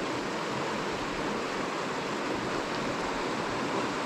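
Steady rush of flowing river water in a trout stream run.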